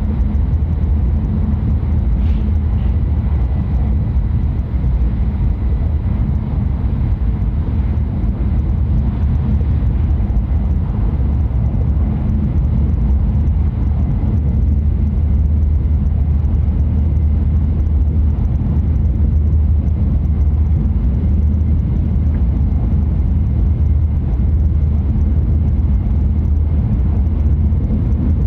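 Tohoku Shinkansen train running at speed, heard from inside the passenger car: a loud, steady low rumble.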